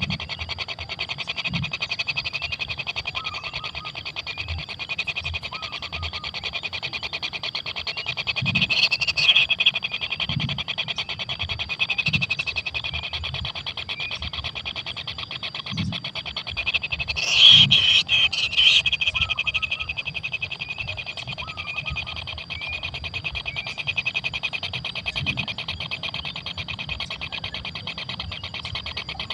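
Kingfisher nestlings in the nest hole giving a steady, rapid buzzing begging chorus, with a louder flurry about two-thirds of the way through and soft knocks from movement.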